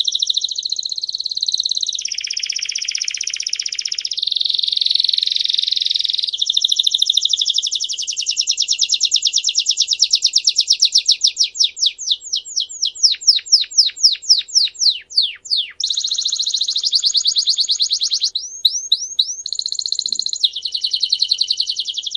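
A songbird singing a long unbroken song of very fast trills, switching to a new trill every few seconds. In the middle and again near the end it slows into a run of separate downward-sweeping whistled notes.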